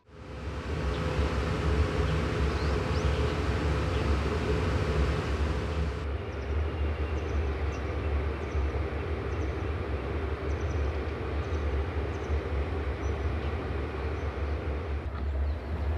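Freight train headed by a JR Freight EH500 electric locomotive: a steady low rumble with a hum. The sound changes in character about six seconds in and again near the end.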